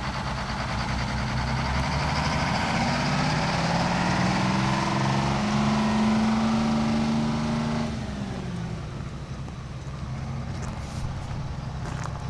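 Diesel-type engine on a 1979 IHC 2600 jet-pump truck revving up about two seconds in, holding at high speed with a hiss over it, then winding back down about eight seconds in and settling to a lower, steady run. A few faint clicks near the end.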